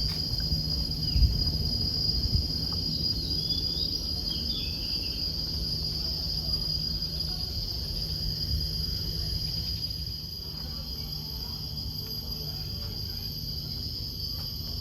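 Forest insects droning steadily at a high pitch, with a few short bird chirps in the first few seconds and a couple of low thumps about a second in.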